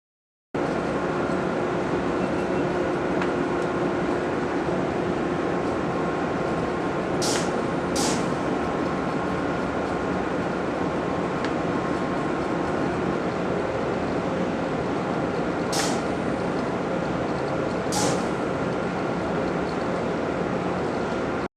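Steady, loud machinery noise in a railway rolling-stock works. Four short, sharp hisses of air break through it, two close together and two later.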